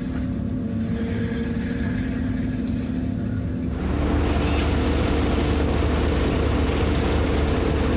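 Diesel engine of a Merlo crane running steadily, then stepping up to a higher, louder speed about four seconds in, and holding there.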